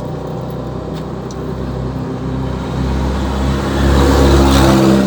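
Isuzu truck's diesel engine running at idle, with a louder swell of engine noise building from about three seconds in and easing off just before the end.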